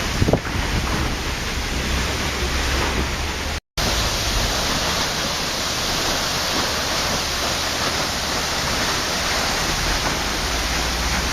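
Waterfall: a steady, even rush of falling water, with one brief splash just after the start and a momentary dropout to silence a few seconds in.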